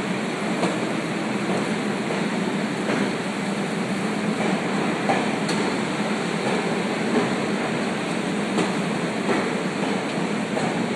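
Staten Island Railway train rolling into the terminal: a steady rumble of wheels on the track, with scattered clicks from the rails.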